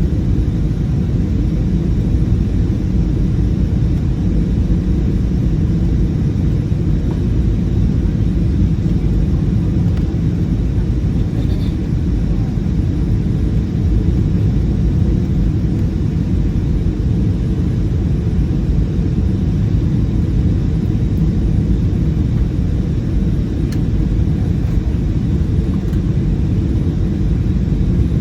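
Steady low cabin rumble of an Airbus A320-216 in flight, its CFM56 engines and the airflow over the fuselage heard from a window seat near the rear of the cabin.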